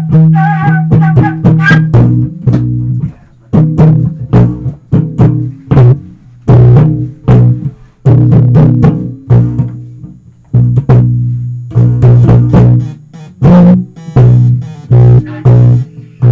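Instrumental music: an electric bass playing a run of plucked low notes, with guitar.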